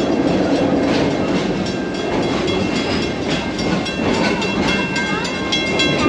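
Open-sided park train rolling along its track: a steady rumble with regular clicks of the wheels over the rails. High steady squealing tones join about four seconds in.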